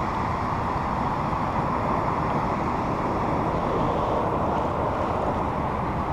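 A steady rushing noise that holds at the same level throughout, strongest in the middle range.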